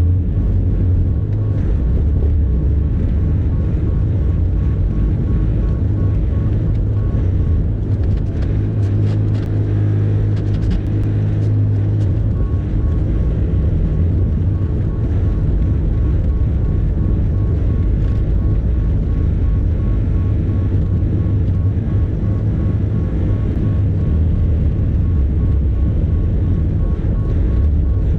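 Bobcat E50 compact excavator's diesel engine running steadily with a deep rumble while working snow. About a third of the way in, the engine note briefly shifts, along with a few faint clicks.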